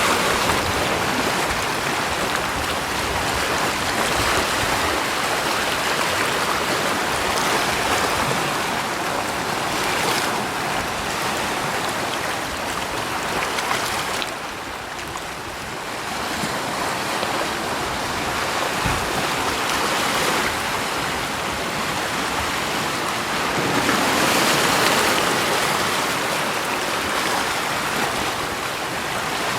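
Steady rushing water noise that swells and ebbs slowly, dipping about halfway through and rising again near the end.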